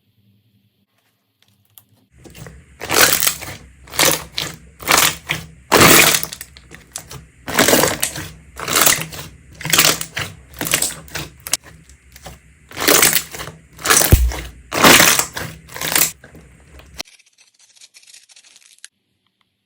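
Crunchy slime being pressed and squeezed by hand, a crackling crunch with each press, one to two a second for about fifteen seconds, then stopping.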